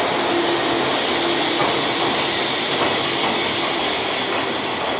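Electric train running slowly along a station platform: steady rolling noise with a thin high squeal from the wheels. Wheels click over rail joints towards the end.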